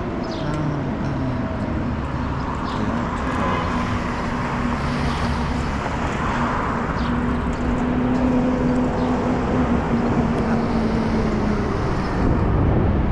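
Road traffic noise with a motor vehicle's engine humming close by, steady for most of the stretch and fading out near the end.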